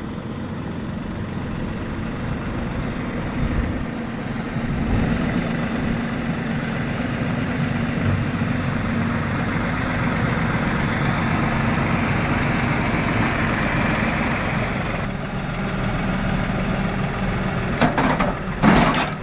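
An engine running steadily, its level swelling somewhat through the middle, with two sharp knocks near the end.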